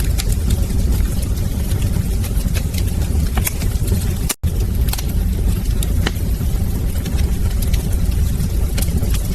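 Wood fire burning in a fireplace: a steady low rumble with scattered sharp crackles and pops. The sound cuts out for a split second about four seconds in.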